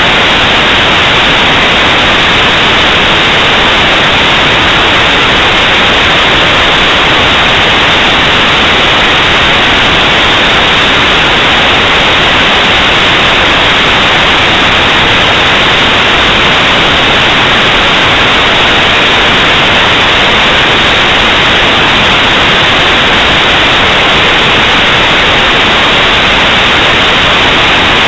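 Loud, steady static hiss, unchanging throughout and cut off sharply above the upper mid-range.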